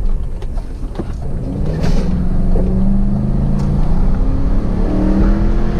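Car engine under acceleration, its note rising slowly from about a second and a half in, over a steady low road and wind rumble.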